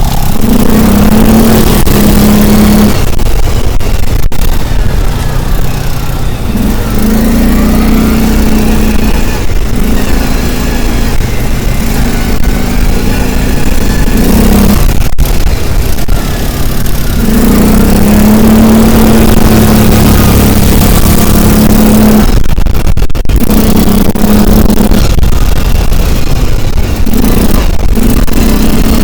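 A vehicle engine running while driving, over heavy low road and wind rumble. The engine note holds steady in stretches and breaks off several times.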